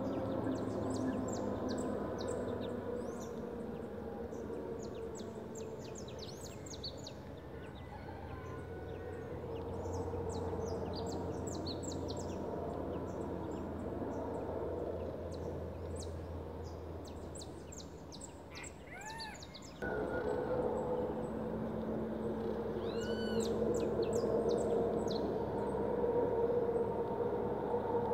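Thin, high chirps of sabiá (thrush) nestlings begging in the nest, coming in clusters, with a few lower arched calls among them. A steady low hum runs underneath.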